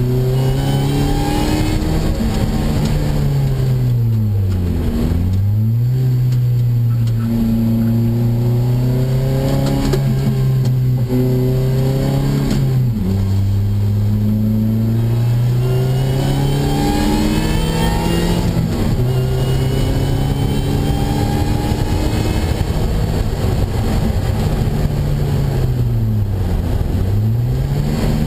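An Opel Speedster's four-cylinder engine, heard from inside the cockpit, driven hard through the gears. The revs climb steadily under acceleration and drop sharply at a gear change about 13 seconds in. Around 5 seconds in and again near the end, the revs fall away and climb back as the car slows for a corner and accelerates out.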